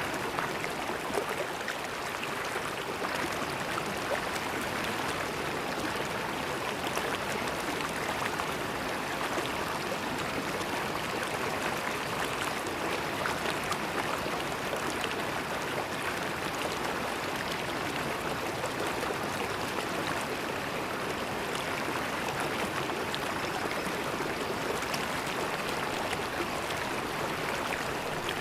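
River water flowing and babbling over stones, a steady rushing with small splashes and trickles scattered through it.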